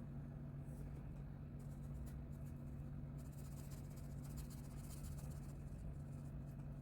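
A coloring tool scratching across paper in stretches of quick strokes, over a steady low hum.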